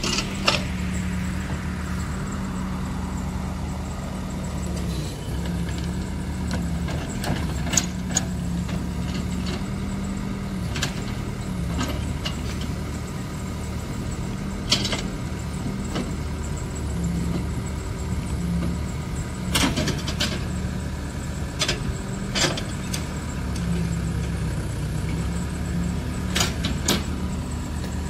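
Diesel engine of a Case 580M backhoe loader running steadily, its note dipping and rising slightly as the machine works. Sharp knocks and clanks come every few seconds.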